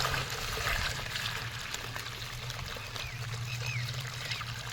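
Water being poured into a vessel, the pour loudest at the start and tapering to a trickle. A few short bird chirps come about three seconds in.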